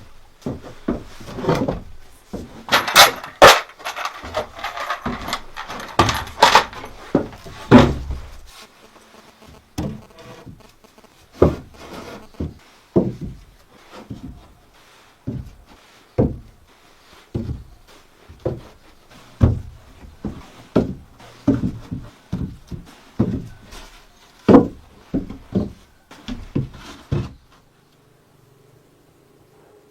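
Wooden knocks and thuds from work on timber. A busy stretch of knocking and rubbing in the first eight seconds gives way to single knocks every half second to a second, which stop a few seconds before the end.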